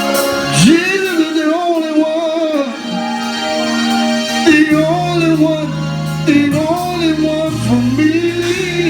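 Gospel singing: a solo voice holding long, wavering notes and runs without clear words, over steady sustained chords from the church band's instruments.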